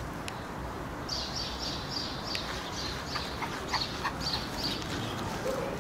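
A small bird calling: a string of about a dozen short, high chirps, roughly three a second, starting about a second in and stopping near the end, over steady low background noise.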